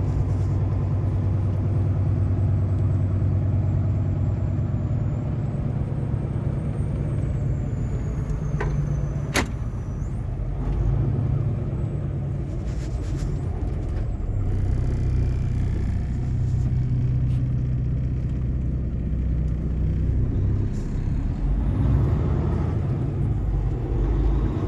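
Kenworth T680 semi truck's diesel engine running steadily as the truck drives, a low even hum. There is one sharp click about nine seconds in.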